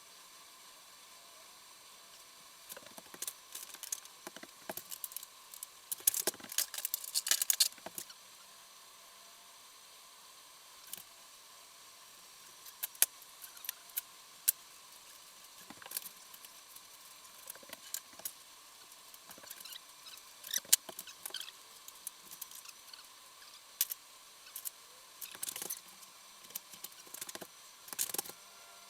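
Small metal clicks, taps and scrapes of engine parts and hand tools being handled during reassembly, likely as the camshaft caps and cover are fitted. The sounds come irregularly, with a dense run of scraping and rattling about six to eight seconds in and sharp single clicks scattered through the rest.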